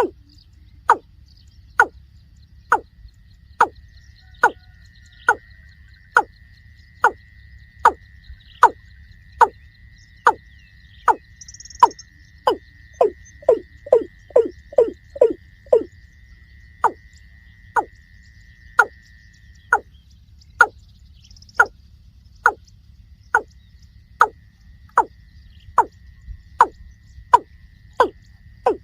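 A water bird of the rail family calling: sharp, loud notes that each drop quickly in pitch, repeated about once a second, running faster for a few seconds midway. A faint steady high insect-like trill goes on underneath for much of the time.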